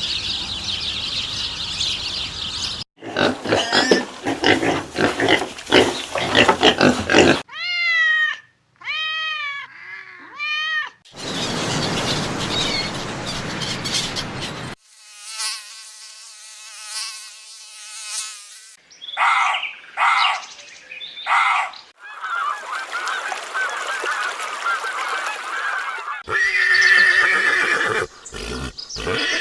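A run of different animal calls and noises, one short clip after another with abrupt cuts between them, including a few arched, rising-and-falling calls and some honking-type calls.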